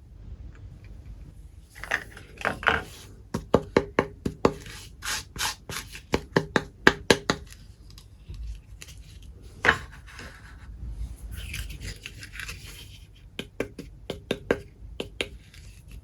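Miniature toy kitchen pieces and their packaging being handled: a quick run of sharp little clicks and taps with some rubbing, busiest from about two to seven seconds in and again near the end.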